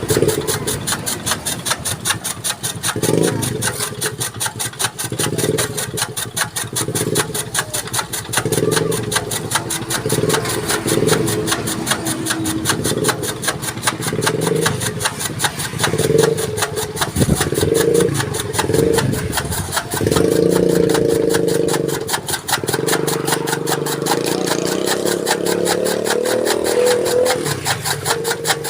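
Chaff cutter (toka machine) running, chopping maize stalks for fodder: a steady mechanical run with a fast even rhythm, loudening in irregular surges, with one longer loud stretch about twenty seconds in.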